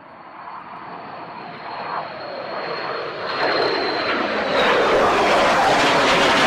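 Fighter jet passing close, its engine noise building steadily with a high whine that drops slightly in pitch, then cutting off suddenly.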